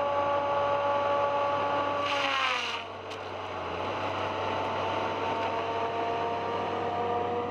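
A heavy forestry machine's engine running steadily. About two seconds in, its note drops sharply with a brief hiss, then slowly climbs back up.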